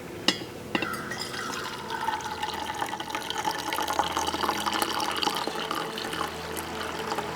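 Water running and splashing, after two sharp clicks in the first second.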